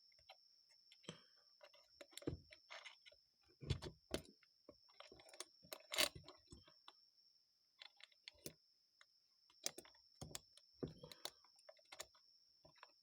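Faint, irregular clicks and light taps of small carburetor parts being handled and fitted together by hand, over a steady high-pitched whine.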